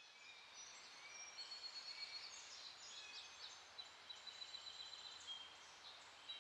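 Faint birdsong: several birds giving short, high chirps and whistles, some sliding in pitch, over a soft background hiss.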